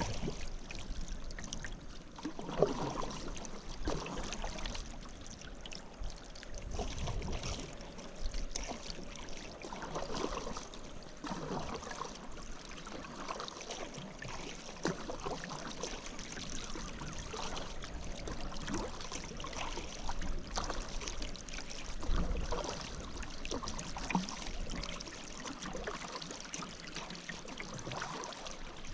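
Paddle strokes dipping into river water, a splash every second or two, with water running off the blade between strokes.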